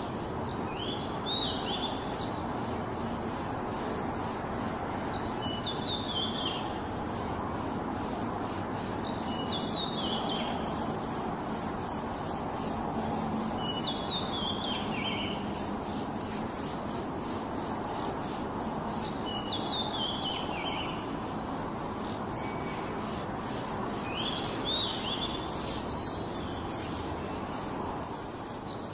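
Oriental magpie-robin (kacer) singing short whistled phrases that drop in pitch, one about every four to five seconds, over a steady loud hiss of background noise.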